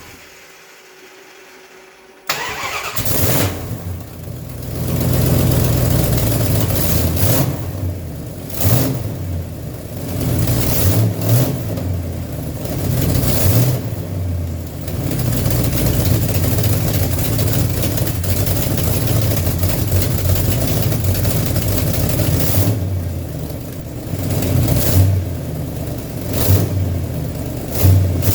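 Chrysler 400 cubic-inch V8 starting about two seconds in, then running with the revs rising and falling. It catches after several cranks, which the owner puts down to it being a bit flooded; this is its first run on fresh oil and a new filter.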